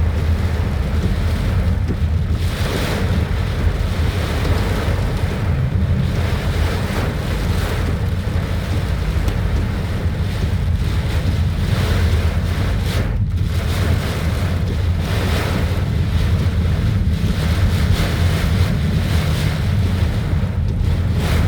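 Strong wind buffeting the microphone in a steady low rumble, over the hiss of heavy rain that swells and eases with the gusts.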